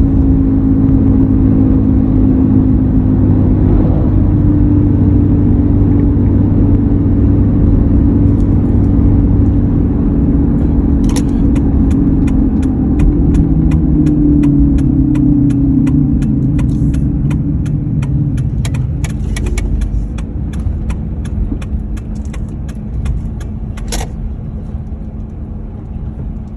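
2003 Ford F-150 driving with a steady hum whose pitch falls and fades as the truck slows down. In the second half a run of regular clicks, about three a second, ticks along.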